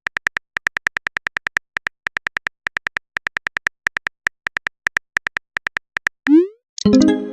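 Phone-keyboard typing sound effect of a text message being typed: rapid, evenly pitched clicks, about six or seven a second. About six seconds in comes a short rising send swoosh, then a brief bright message tone near the end.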